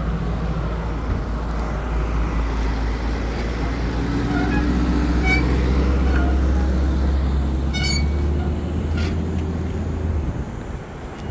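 A low, steady motor hum, with two short clicks about five and eight seconds in, that cuts off about ten seconds in.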